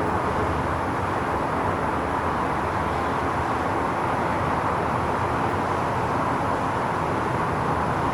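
Steady outdoor rushing noise, even throughout, with no distinct claps or booms.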